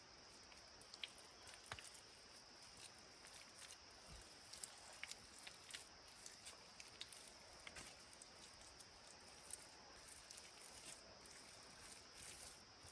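Faint steady chirring of insects, with scattered light clicks and crackles.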